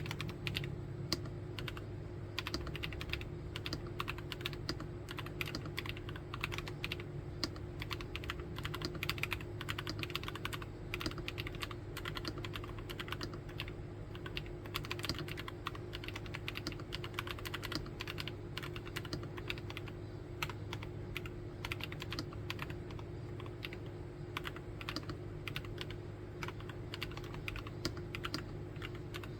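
Continuous fast typing on a NuPhy Field75 mechanical keyboard, with many keystrokes a second running together, over a faint steady low hum.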